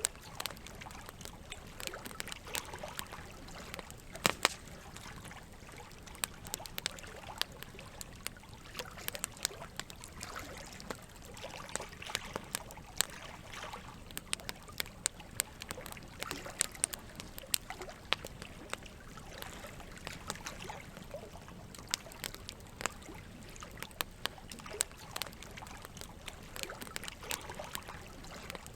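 Campfire crackling, with many irregular sharp pops, over a steady wash of running water.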